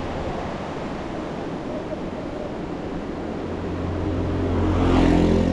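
Wind rushing over the microphone of a moving motorbike, a steady noisy rush. In the last two seconds a low engine hum swells up and gets louder.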